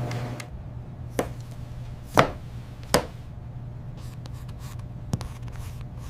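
Four sharp taps, with a few faint ticks between them, over a steady low hum. The second tap is the loudest.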